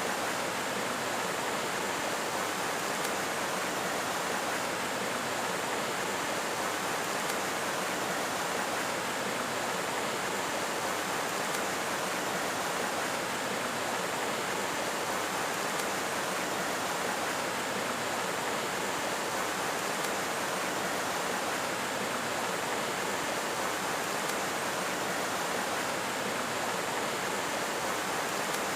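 Steady, even rushing noise that does not change or break, the kind made by running water.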